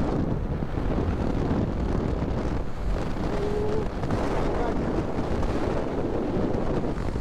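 Wind buffeting the microphone of a moving motorcycle, with steady road and engine noise underneath. A short faint tone sounds about three and a half seconds in.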